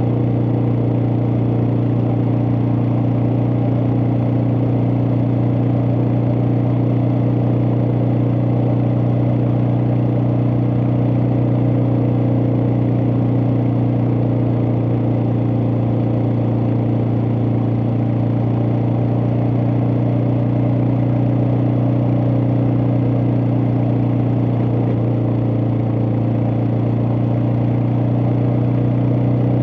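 Suzuki DR650's single-cylinder four-stroke engine running steadily at an even cruising speed, heard from on board the motorcycle.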